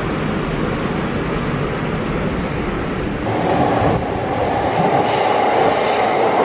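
Train car running with a steady rumble; about three seconds in a louder screech joins it, and high-pitched wheel squeal comes and goes near the end.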